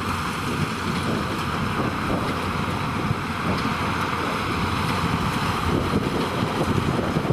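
Tractors and hay-making machinery running steadily, with wind buffeting the microphone.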